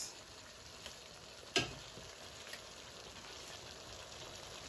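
Chicken and vegetables sizzling steadily as they stir-fry in a metal pan, with one sharp knock about one and a half seconds in and a few faint ticks.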